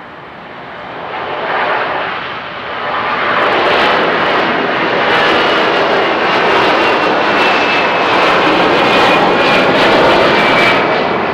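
Boeing 757 jet engines at takeoff power, growing louder over the first few seconds and then holding a loud, steady rush. A faint high whine slowly falls in pitch as the jet goes by.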